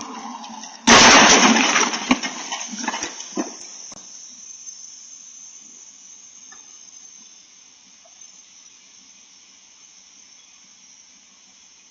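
Vehicle collision: a sudden loud crash about a second in, then a few sharp knocks and clatters of debris dying away over the next three seconds. A faint steady hiss of a dash camera's recording follows.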